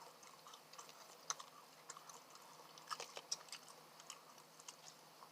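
Faint chewing close to the microphone: soft, scattered mouth clicks and smacks from a person eating fast food.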